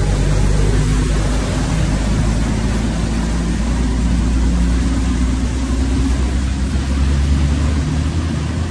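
A vehicle engine running steadily with a low hum, under a constant hiss of heavy rain.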